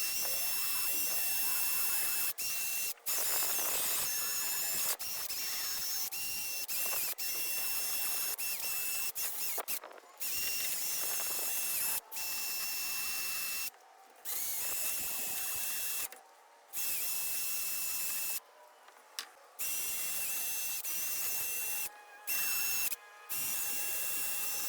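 A small power tool running steadily with a high whine, heard in a string of short clips that cut in and out abruptly, some with brief silences between.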